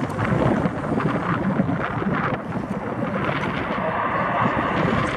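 Wind rumbling and buffeting on the microphone, with jet aircraft engine noise building from about halfway through.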